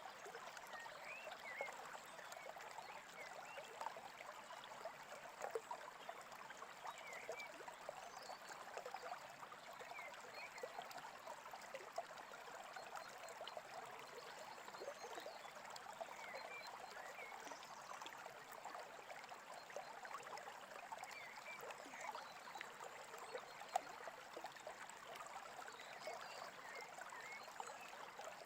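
Faint, steady babbling of a small stream, with occasional short bird chirps scattered through it.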